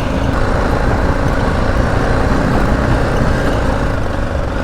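BMW G 310 GS's single-cylinder engine running steadily under way, mixed with an even haze of road and wind noise.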